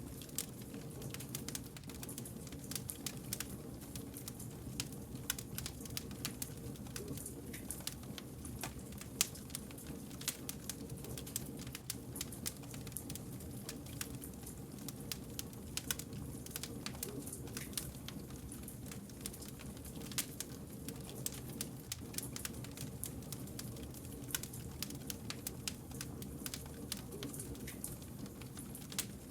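Wood fire crackling steadily, with many small sharp snaps over a low, even rush of flame.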